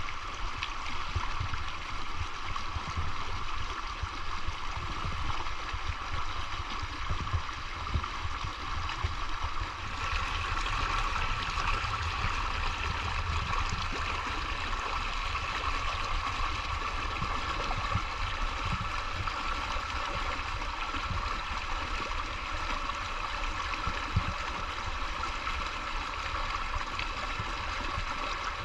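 River water flowing over stones in a steady, unbroken babbling rush, with a low rumble underneath. The character of the water sound shifts slightly about ten seconds in.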